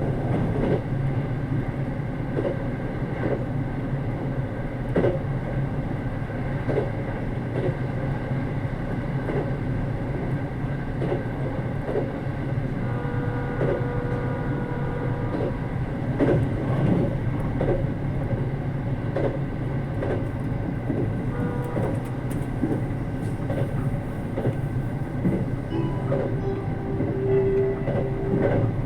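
Inside a JR Kyushu 787 series electric limited express running at speed: a steady low rumble of wheels and motors, with irregular clicks as the wheels pass over rail joints. Faint held tones come through twice, about halfway and near the end.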